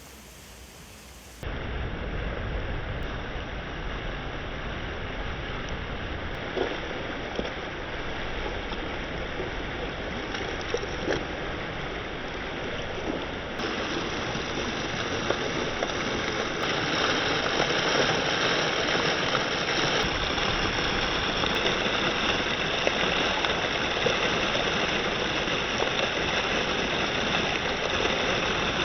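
Heavy rain falling steadily, an even hiss with a few faint drop ticks. It starts abruptly about a second in and grows louder about halfway through.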